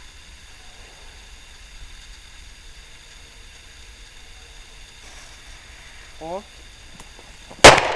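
A firecracker exploding with a single sharp, very loud bang near the end, after several seconds of quiet waiting.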